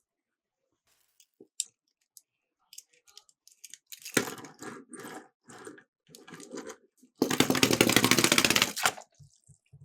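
Miniature toy cars rolling and clattering down a slope: scattered light clicks, then rattling runs from about four seconds in, and a loud, dense rattle lasting nearly two seconds near the end.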